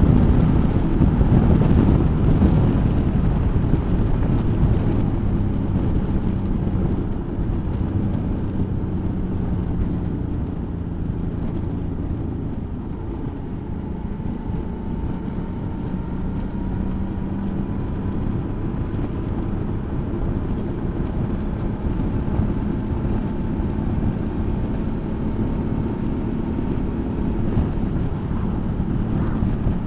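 Suzuki V-Strom motorcycle running at road speed, with wind noise on the microphone. A steady low rumble whose engine note shifts a little now and then.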